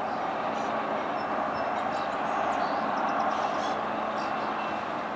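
Approaching diesel freight train led by a Norfolk Southern AC44C6M and a BNSF ES44C4 locomotive: a steady engine and rail rumble with a faint low drone, with no horn. A few faint high chirps sound over it.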